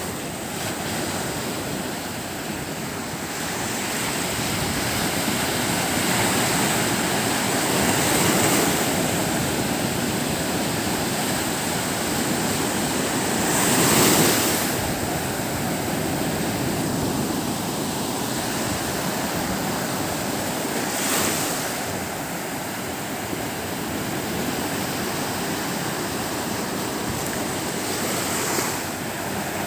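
Sea waves breaking and washing ashore in a steady rush, swelling every six or seven seconds, with the biggest wave about 14 seconds in.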